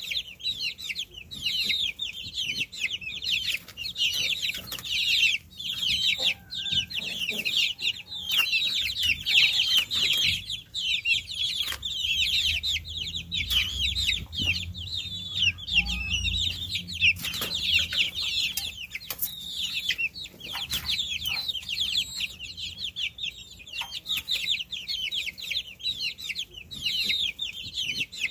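A brood of baby chicks peeping continuously: many high, short chirps that fall in pitch, overlapping without a break. A low rumble comes in for a few seconds partway through.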